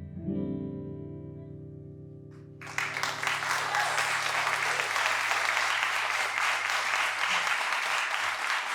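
A final guitar chord rings out and fades, then the audience breaks into applause about two and a half seconds in, clapping steadily after that.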